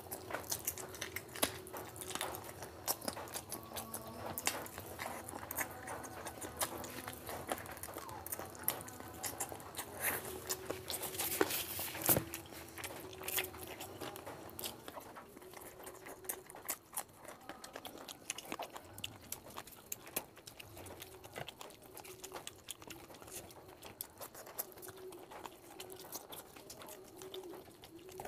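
Chewing and wet mouth sounds of a person eating chicken curry and rice, with many small, irregular clicks and smacks.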